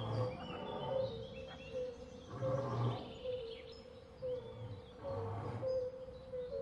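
Nature ambience sound bed of bird chirps over a short call repeating at one pitch about twice a second, with a few low, louder swells every couple of seconds.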